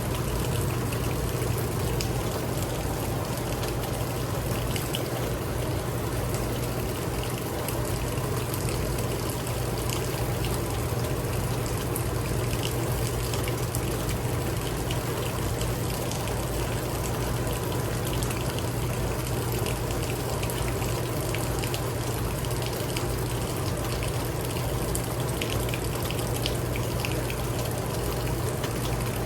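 Steady heavy rain with water trickling and pouring as runoff, scattered with small drop ticks, over a steady low hum.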